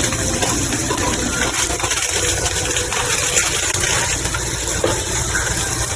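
Onion and ginger-garlic masala frying in ghee in a pan, a steady sizzle over a constant low hum.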